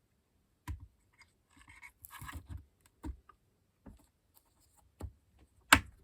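Small objects being handled on a workbench: a handful of light knocks and clicks as things are picked up and set down, with a scratchy rustle about two seconds in and the loudest knock near the end.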